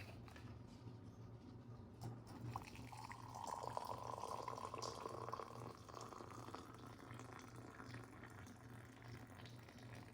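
Water running from a tap into a sink for about three seconds in the middle, among small knocks, over a low steady hum.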